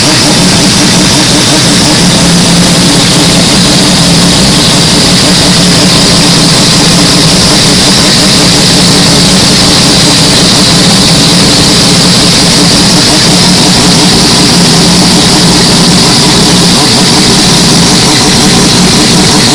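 Mazda 767B's four-rotor rotary engine running steadily at a constant speed, with no revs or flybys. It is very loud and distorted.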